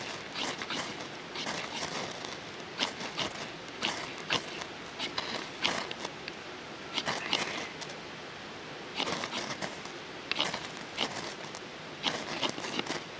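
Irregular sharp clicks and crackles from twigs and kindling being handled while laying a fire in a small wood stove.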